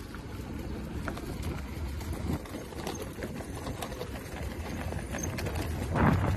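E-bike riding along: a steady low rumble of tyres on the ground with scattered small rattles and clicks. About six seconds in, wind buffets the microphone.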